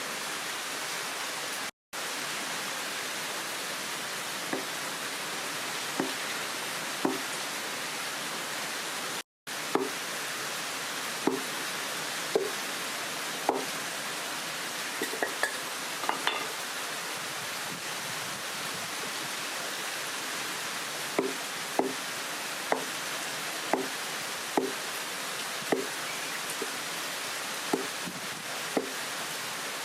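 Heavy rain pouring down steadily, with water dripping in single plinks every second or so. The sound drops out for an instant twice.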